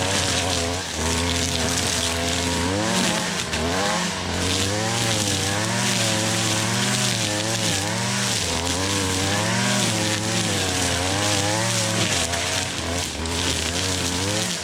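Gas string trimmer (weed eater) engine running hard as it cuts through tall grass and weeds, its pitch dipping and rising over and over as the load changes.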